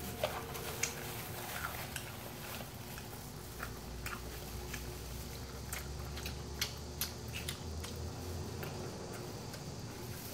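Close-up chewing and biting of crispy fried chicken coated in wasabi powder, with irregular small crunches and mouth sounds scattered through.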